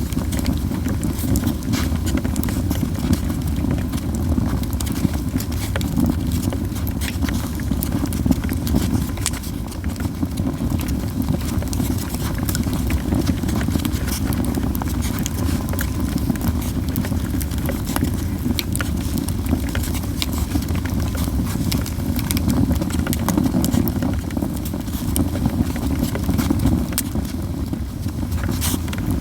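Yew-wood campfire crackling, with many small irregular pops and snaps over a steady low rumble.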